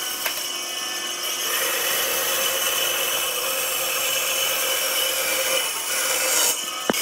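A tool working wood with a steady, continuous, noisy sound. It dips briefly near the end, and a sharp click follows.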